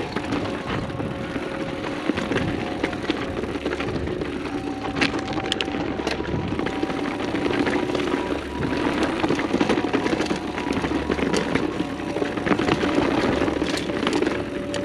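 Mountain bike rolling fast downhill on dirt singletrack: tyre noise and the bike rattling over rough ground, with frequent sharp clicks and knocks over a steady buzzing hum.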